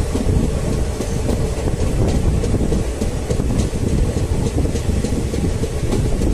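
Passenger train running, heard from on board: a steady loud rumble of the coach with wind noise, and a quick run of faint clicks from the wheels on the rails.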